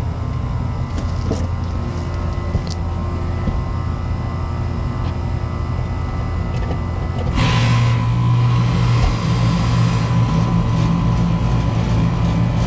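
Air conditioner running with a steady low hum. About seven seconds in, the compressor starts with a sudden surge and its louder electric hum takes over: the thermal overload switch has cooled down and closed, letting the compressor run.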